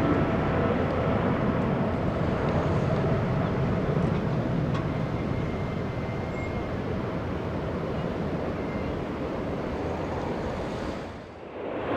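Jet airliner engine noise, a steady rumble with a faint whine. It drops away briefly near the end, then picks up again.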